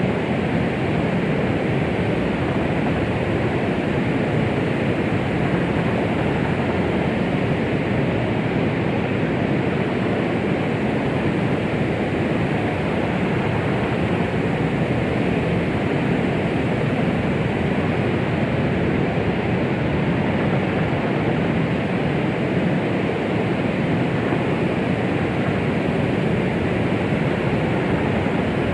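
Continuous white-noise "womb sound" track for soothing a baby: an even, steady rushing hiss, heaviest in the low and middle range and soft in the treble, with no pulse or change.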